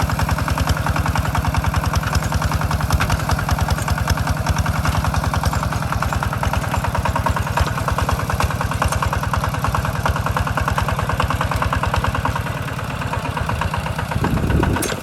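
Tractor engine running steadily with rapid, even firing pulses; it eases off slightly about two seconds before the end, then surges briefly.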